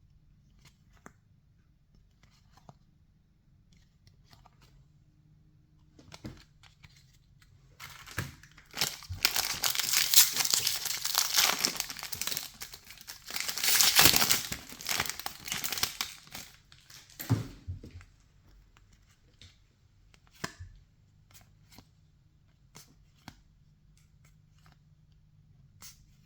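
A 2024 Topps Series 2 baseball card pack wrapper being torn open and crinkled, loud and crackly for about ten seconds in the middle. Before and after it come faint scattered clicks of cards being handled.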